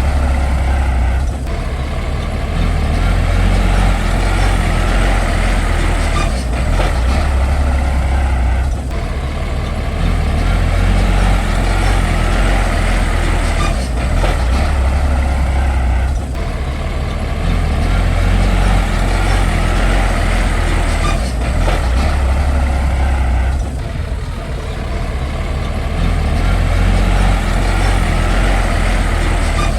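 Heavy diesel engine of earthmoving machinery running hard and continuously, with a deep low rumble. Its note dips briefly every few seconds.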